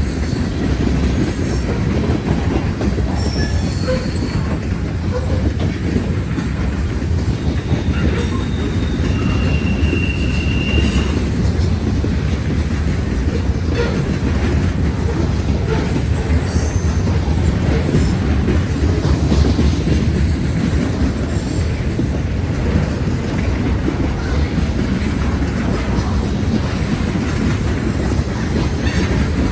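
Norfolk Southern freight train rolling past, a steady loud rumble of wheels on rail, with brief high-pitched wheel squeals a few times, the clearest about ten seconds in.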